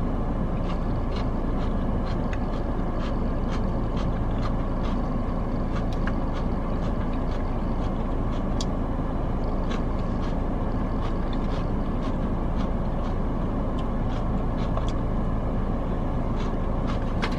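Steady rush of a car's air-conditioning fan blowing inside the cabin, with scattered light clicks from eating with a plastic spork.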